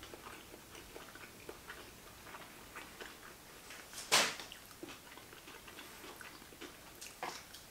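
People chewing sushi, with soft wet mouth clicks scattered throughout. One short, louder noisy burst comes about four seconds in.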